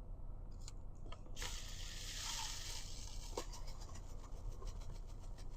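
Coffee beans being ground, a soft rasping hiss for about two seconds with a few faint ticks.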